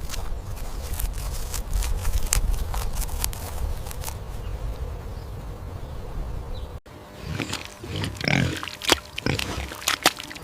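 Low rumble with scattered clicks, then after a sudden cut about seven seconds in, a farm animal calling in short, uneven bursts.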